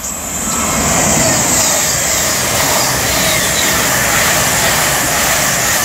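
A pair of Cross Country Voyager diesel units, a Class 221 coupled to a Class 220, running through the station at speed without stopping, their underfloor diesel engines and wheels on the rails making a loud rushing noise. The noise builds over the first second, then holds steady with a high hiss.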